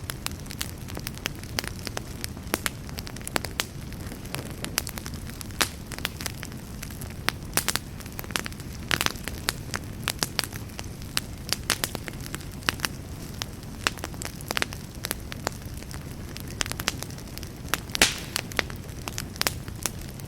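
Campfire burning: a steady low rush under frequent, irregular sharp crackles and pops, with one louder pop about 18 seconds in.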